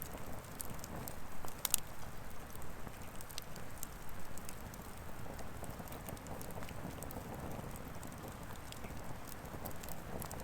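Firewood burning in a fire pit, crackling with scattered sharp pops over a low steady rush, the loudest pop about two seconds in.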